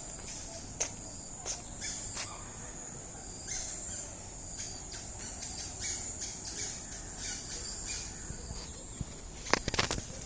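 Forest ambience: a steady high drone of insects with many short bird calls and chirps over it. Near the end, a quick run of sharp clicks stands out as the loudest sound.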